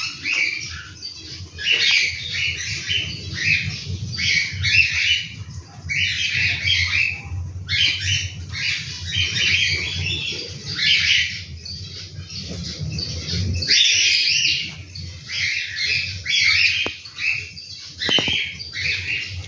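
Cockatiel chicks giving raspy, insistent calls one after another without pause, over a steady low hum.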